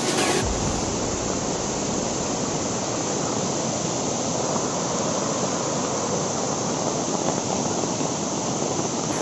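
Steady, even rush of falling water: a waterfall in heavy rain.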